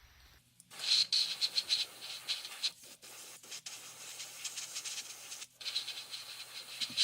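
Rapid back-and-forth scraping strokes in several short runs, each cut off abruptly, as of hand work on the restored toy truck's surface.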